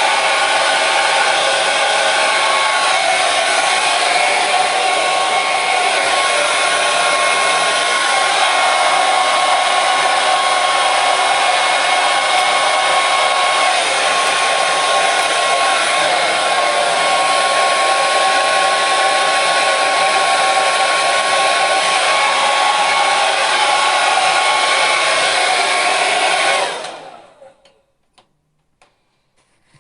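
Hair dryer running steadily: a loud blowing rush with a steady whine over it. Near the end it stops, fading out over about a second to near silence.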